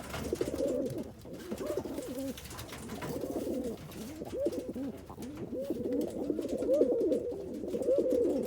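Roller pigeon cocks cooing, several low warbling coos overlapping and running on continuously.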